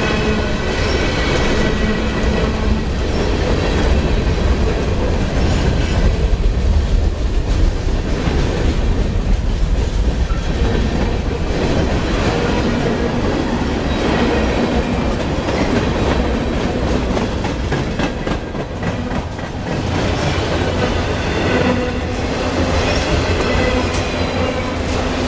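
Freight train cars (boxcars, tank cars and autoracks) rolling past at close range: steady rumble of steel wheels on the rails, with the clickety-clack of wheels over rail joints.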